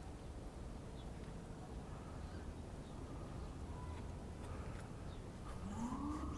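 Outdoor park ambience: a steady low rumble of distant city traffic with faint, scattered bird chirps. Near the end comes one short pitched call that rises and then falls.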